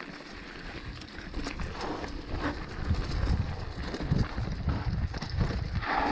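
Bicycle riding over a bumpy dirt trail: irregular knocks and rattling jolts from the tyres and frame, growing louder as the ride picks up about a second in.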